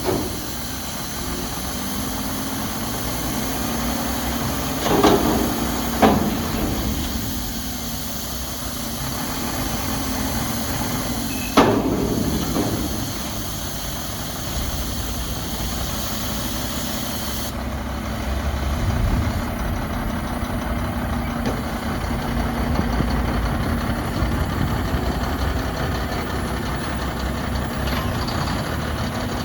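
Front-loader garbage truck's diesel engine running steadily, with three sharp metal bangs about five, six and twelve seconds in, typical of a dumpster being emptied into the hopper. The engine grows louder in the second half as it works the lift hydraulics.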